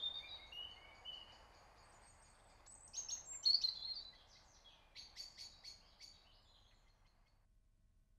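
Faint birds chirping and calling in short high notes, with a run of quick chirps around the middle, dying away to near silence near the end.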